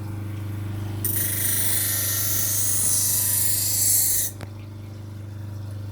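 Electric grinder motor running steadily while a steel knife blade is pressed against it, giving a loud grinding hiss from about a second in until just past four seconds, when the blade is lifted off and only the motor hum remains.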